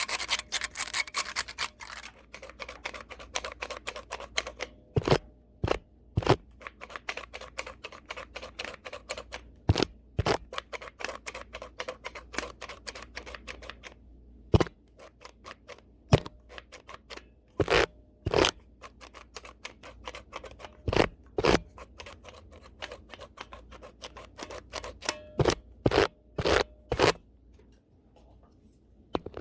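A brush dragged fast and hard across a camera lens, bristles scratching right at the microphone. There is a dense run of strokes for about the first two seconds, then separate sharp flicks at irregular intervals, with a brief lull near the end.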